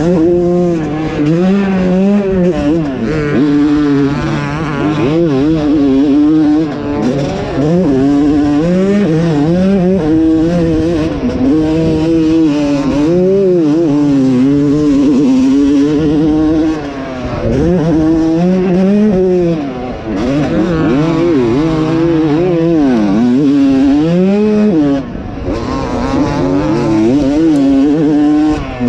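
2020 Yamaha YZ250's 250cc single-cylinder two-stroke engine raced hard around a motocross track, its pitch rising and falling over and over as the rider works the throttle and gears. The throttle is chopped briefly a few times before the engine revs up again.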